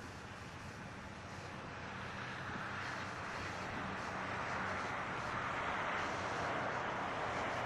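Diesel locomotives of an approaching train: a steady low engine drone and a rushing noise that grow steadily louder.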